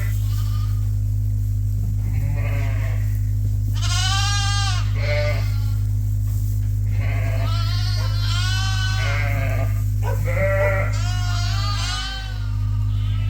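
Sheep bleating, a string of separate wavering calls, some overlapping, over a steady low hum.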